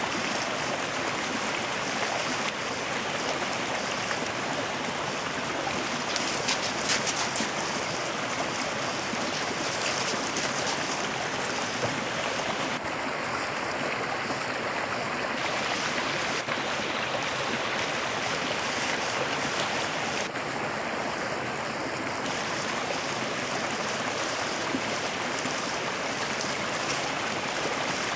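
Steady rushing of a rain-swollen, overflowing creek.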